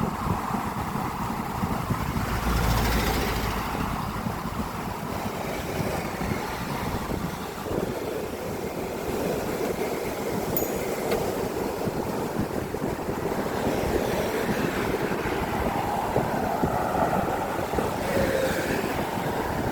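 Steady road traffic noise from cars crossing a six-lane bridge, a continuous rush of tyres and engines. A louder vehicle passes with a low rumble about three seconds in.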